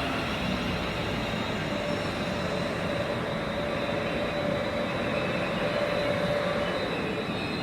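A train running past on the rails: a steady rushing rumble of wheels and running gear, with a faint steady whine through the middle of the passage.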